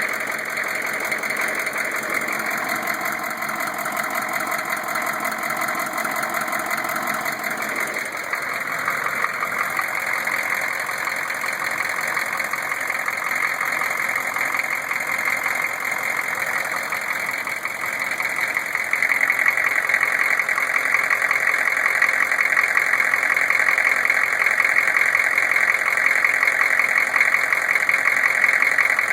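GM 6.5 L V8 diesel engine running at idle with a rhythmic knock, growing louder about two-thirds of the way through. The knock comes at half crank speed, which the owner takes for a valve-train fault in the freshly rebuilt engine, with flex plate and torque converter bolts ruled out.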